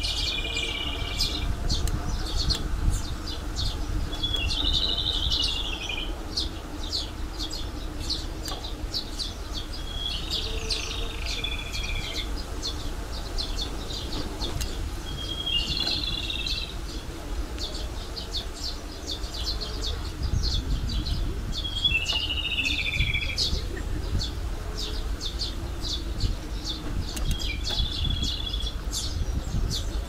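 A songbird singing a short, high phrase that falls in pitch, repeated about every five or six seconds. Under it runs a steady low rumble with scattered faint ticks.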